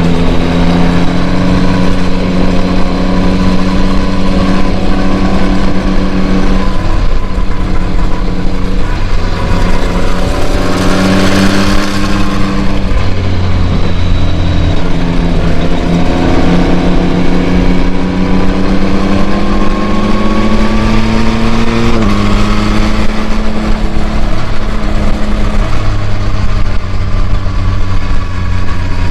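2021 Yamaha MT-09's 890 cc inline-three engine running through its stock exhaust on the move, revs kept below 6000 rpm for break-in. The engine note climbs gradually and drops suddenly about 7 and 22 seconds in, with a brief rush of noise around 11 seconds.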